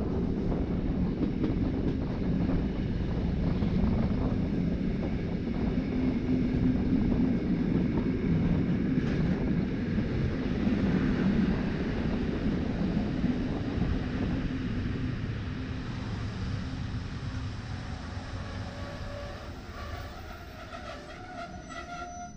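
Rhaetian Railway ABe 8/12 "Allegra" electric train running along the track: a steady rumble of wheels on rail with occasional clicks, growing quieter over the last several seconds.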